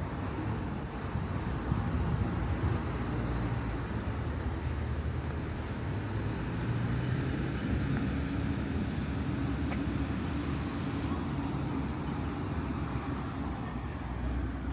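Street traffic: a steady wash of road noise with the low hum of a motor vehicle's engine running close by, a little stronger in the middle.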